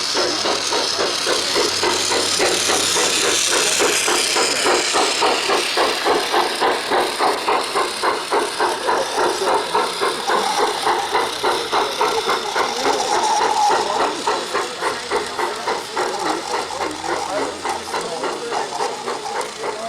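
Garden-railway model steam locomotive chuffing in an even rhythm of about three to four beats a second, over a steam hiss, growing quieter about two-thirds of the way through.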